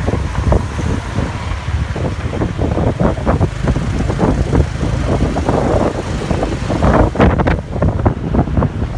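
Wind buffeting the microphone in loud, uneven gusts, with a stronger gust about seven seconds in.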